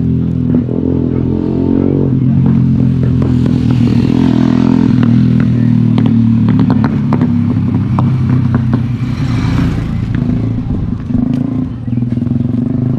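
Motorcycle engine running steadily at idle, with scattered light clicks and clatter over it.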